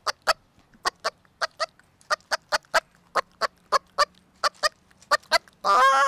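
A woman imitating a hen with her voice: a run of short clucks, about three or four a second, then a long drawn-out call near the end. It is the call of a hen looking for food for her chicks.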